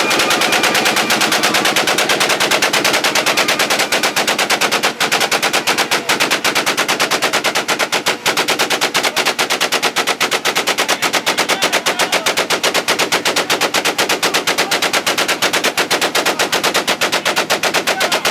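A car engine held against its rev limiter, cutting in and out in a rapid, even stutter that runs on without a break.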